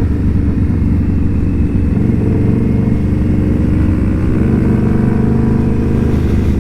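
Indian Scout Bobber's V-twin engine running steadily at cruising speed, heard from the bike while riding, with road and wind noise over it.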